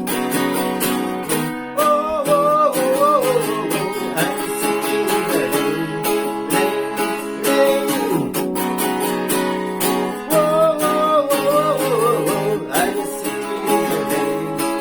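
Acoustic guitar strummed steadily in an instrumental passage between sung lines, with a wavering melody line rising above it twice.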